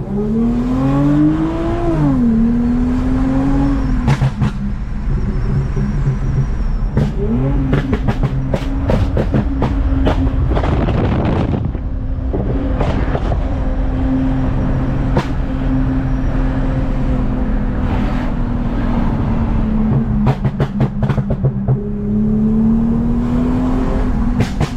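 Toyota Mark X V6 with a modified exhaust, driving: the engine revs up over the first two seconds, drops back as it shifts, then runs at a steady drone and climbs again near the end. Bursts of sharp crackles come and go throughout.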